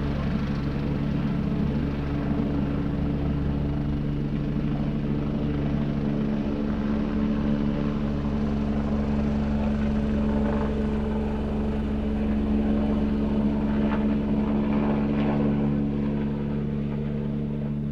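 Helicopter running at steady power, its engine and rotor making a steady hum of low tones with a fast fluttering beat, beginning to fade right at the end.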